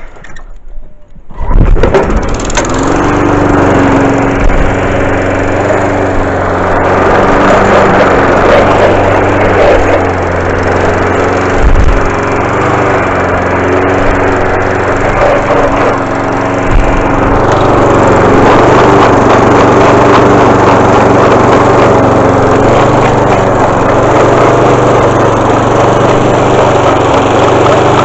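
Honda HRB 423 lawnmower's four-stroke engine starting about a second and a half in and then running steadily, with a few louder knocks along the way. It is being run to show the noise from the self-propelled drive's gearbox, which a mechanic wrote off as gone because it leaks oil, though the owner is not sure.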